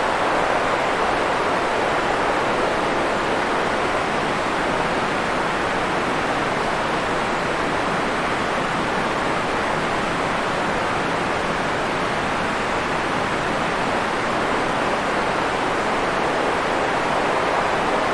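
Steady, even white-noise hiss for sleep, unchanging, with its weight in the middle range and little bass or treble, and no separate sounds in it.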